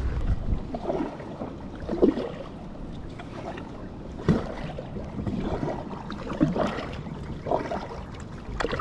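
Kayak paddle strokes in creek water: the blades dip and splash irregularly, about one stroke every second or two.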